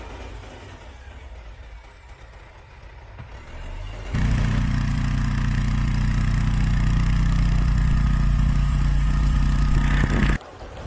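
A vehicle engine running steadily and loudly. It comes in suddenly about four seconds in, after a quieter stretch of noise, and cuts off abruptly shortly before the end.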